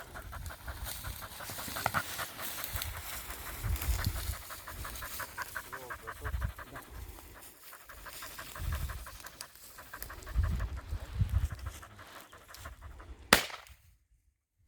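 A spaniel panting rapidly and steadily. Near the end comes one sharp click, after which the sound cuts out.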